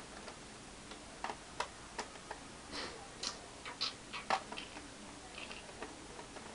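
Small irregular clicks and ticks of a screwdriver working screws out of a laptop's plastic case, with a few brief scratchy scrapes near the middle.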